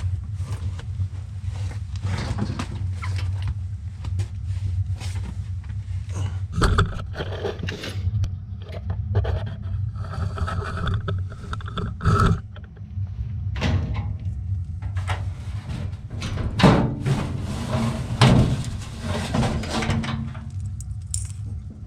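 Metal clinks, knocks and scrapes of tools and screws being worked on a furnace blower assembly, with a steady low hum underneath.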